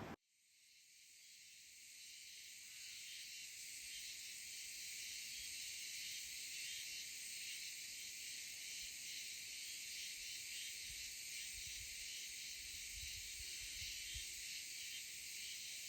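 Faint, steady insect chorus of crickets chirping, fading in over the first couple of seconds, with a few soft low rumbles near the end.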